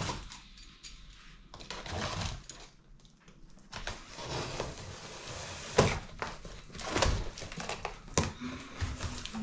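A cardboard box being opened and its packaging handled: scattered thuds and knocks, with a stretch of rustling about four seconds in.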